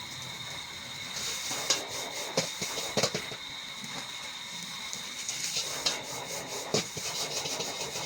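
Fried rice sizzling in a wok: a steady hiss, with a metal spatula knocking against the wok about six times.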